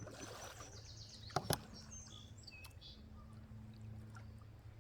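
Water splashing briefly against an inflatable boat, then two sharp knocks about a second and a half in, with small birds chirping.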